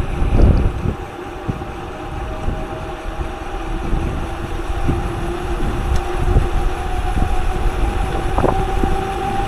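Strong wind buffeting the microphone in a steady low rumble, with a faint steady hum underneath.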